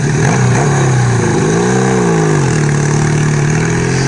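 Engine of a 1975 Kawasaki KZ400 parallel-twin motorcycle running while riding. Its pitch rises and falls once about a second and a half in. Then it holds steady and creeps slowly upward near the end.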